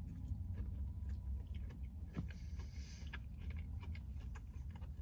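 A person biting into and chewing a crispy fried chicken sandwich with the mouth closed: faint, irregular small crunches and wet clicks over a low steady hum.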